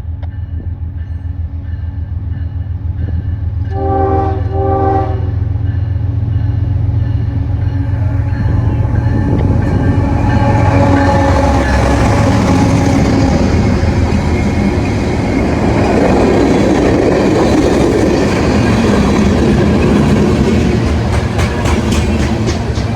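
Diesel locomotive approaching with its engine drone, sounding two short horn blasts about four seconds in. It then passes close by, with loud rolling wheel and rail noise building up and wheel clicks over the rail joints near the end.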